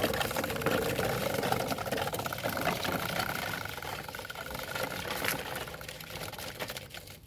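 A small motor running with a fast, steady buzz, fading toward the end.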